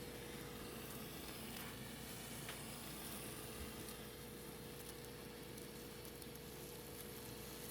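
Small aluminium camping percolator heating on a stove burner set to high, giving a faint steady sizzle as the water heats toward the boil, before perking has begun.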